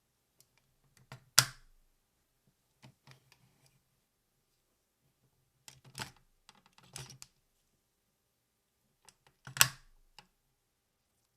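Hard plastic parts of the Engine Jum Bowhale / Seiku-Oh combining robot toy being handled and snapped together: two loud clicks, about a second in and near the end, with smaller clicks and rattles between.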